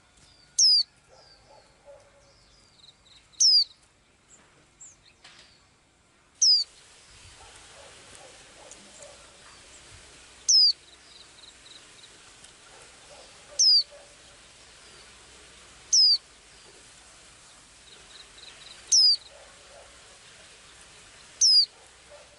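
A small pet bird repeating one loud, sharp, high whistle that slides downward, eight times at roughly three-second intervals, with softer chirps between. A steady faint hiss comes in about a third of the way through.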